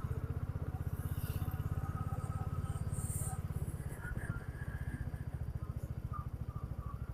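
Motorcycle engine running steadily under way, a low, even rapid pulsing of the exhaust.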